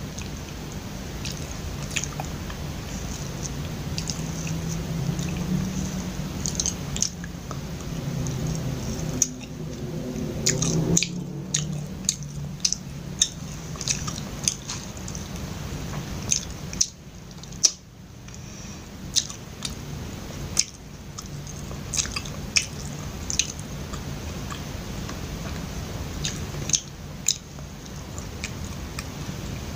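Close-miked chewing of soft, sticky glutinous rice kuih, with many short wet mouth clicks and smacks throughout.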